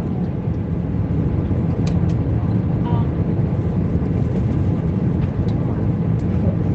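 Airbus A320 cabin noise in flight: a steady, deep rumble of the engines and airflow, with a couple of faint clicks about two seconds in.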